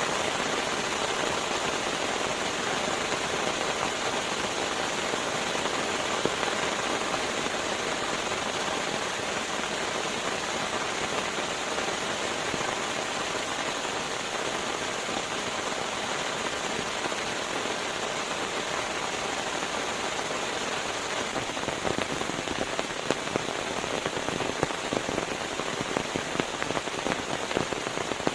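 Steady rain falling as an even hiss, with sharper individual drop hits becoming more frequent in the last several seconds.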